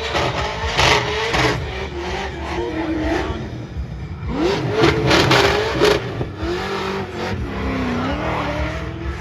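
Drift car engine revving hard, its pitch climbing and falling repeatedly, with louder stretches about a second in and again around five seconds in.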